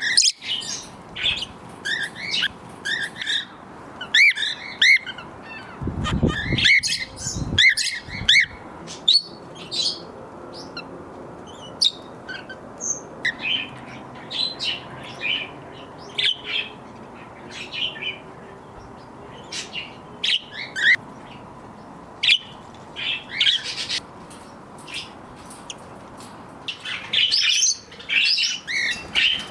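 Mixed flock of small pet parrots, budgies, cockatiels and Bourke's parakeets, chirping and chattering in short, high calls throughout, busiest near the start and the end. A brief low rumble of wind on the microphone comes about six to eight seconds in.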